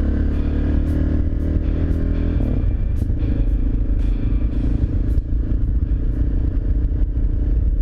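Single-cylinder dual-sport motorcycle engine running under way; the engine note drops about two and a half seconds in, then holds steady.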